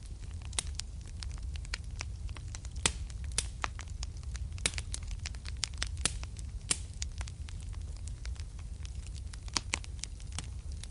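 Fireplace fire crackling: irregular sharp pops and snaps, a few louder than the rest, over a steady low rumble of the flames.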